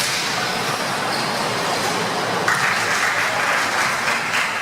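Spectators applauding, the clapping growing stronger about halfway through.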